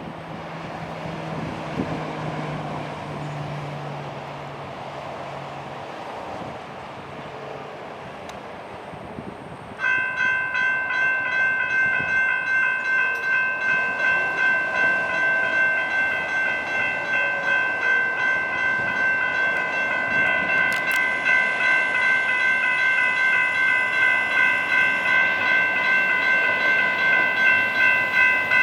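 Traffic noise at first. About ten seconds in, railroad crossing signals with GS Type 3 electronic bells start ringing, a loud, rapid, evenly repeated ding that carries on steadily: the crossing has activated for an approaching train.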